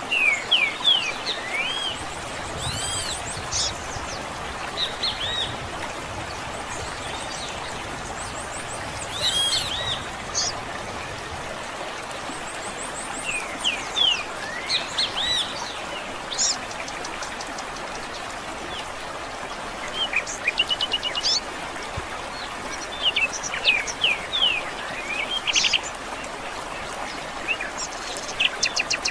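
Several small songbirds singing and chirping in short phrases and quick trills, in bursts with pauses between, over a steady hiss of flowing water.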